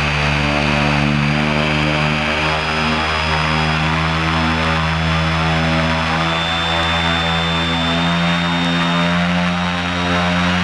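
40 kW brushless DC electric motor spinning a three-blade carbon-fibre propeller under power: a loud, steady propeller hum with a thin, high electric whine from the motor and controller whose pitch shifts slightly.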